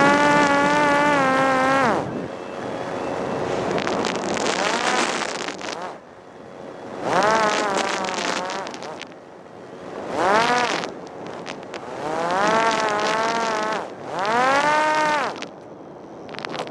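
Parrot Disco drone's electric motor and propeller whining, cutting off about two seconds in, then wind rushing as it glides, broken by four short throttle bursts whose whine rises and falls in pitch.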